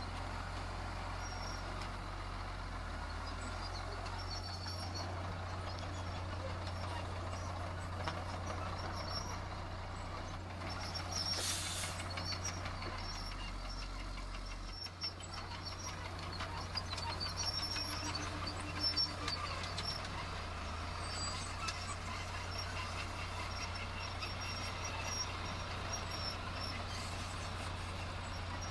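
Heavy diesel construction machinery running steadily with a low engine drone, with scattered knocks and a short burst of hiss about eleven seconds in.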